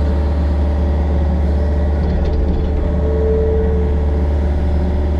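Yanmar excavator's diesel engine running steadily under work, a deep even hum. A brief higher whine rises over it about three seconds in.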